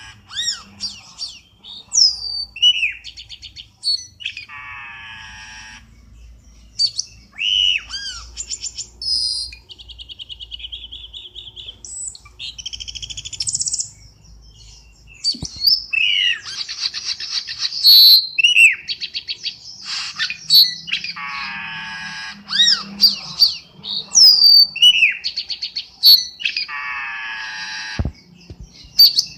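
Cucak keling bird lure call: a busy, varied sequence of sharp falling whistles, chirps and harsh buzzy calls, with a short even trill near the middle, over a faint low hum.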